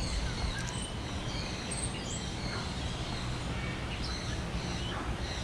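Several small birds chirping with short, quick high calls, some rising, scattered throughout, over a steady low background hum.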